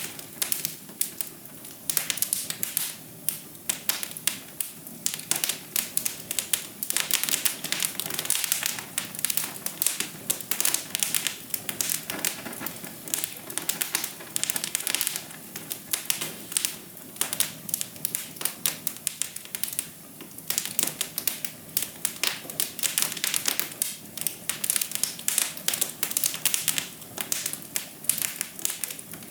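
Wood fire crackling, with a dense, irregular run of sharp snaps.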